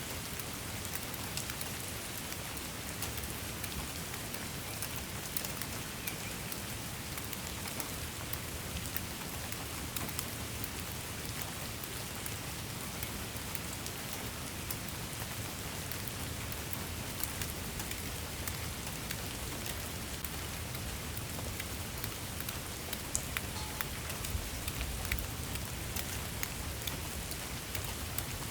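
Steady rain falling on a surface, an even hiss dotted with individual drop ticks.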